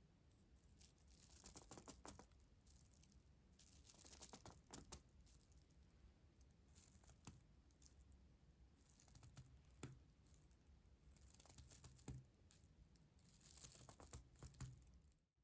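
Faint close-up crinkling and rustling, in soft swishes every second or two, with a few light taps between them.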